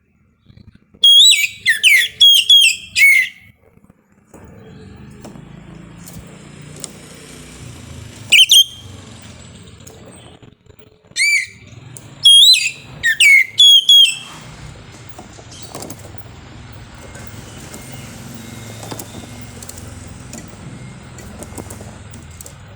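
Oriental magpie-robin (kacer) singing: loud, clear whistled phrases with sliding pitch, in a burst about a second in, a short one around eight seconds, and a longer run from about eleven to fourteen seconds. A steady low hum runs underneath from about four seconds on.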